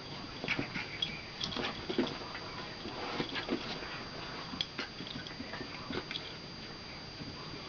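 Two puppies play-wrestling: irregular scuffling and quick clicks of paws and claws, mixed with short growls and yaps.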